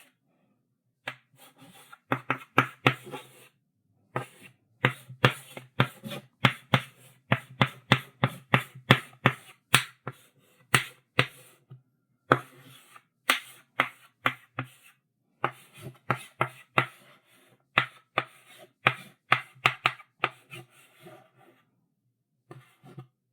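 Chalk writing on a blackboard: quick runs of sharp taps and short scratching strokes, several a second, with brief pauses between runs.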